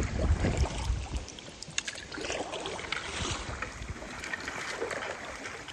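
Kayak being paddled on a river: water splashing and dripping from the paddle strokes, with small knocks and splashes scattered throughout. Wind on the microphone makes a low rumble for about the first second.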